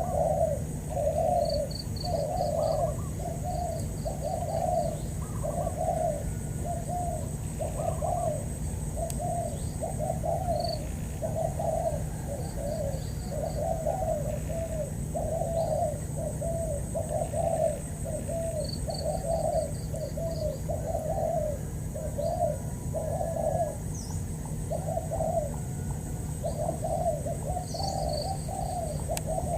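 Spotted doves cooing, coo after coo at about two a second without a break, over a low rumble. Small birds chirp faintly now and then.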